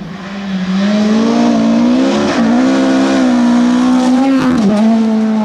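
Rally car engine running hard at a steady high pitch, with two brief dips in pitch partway through.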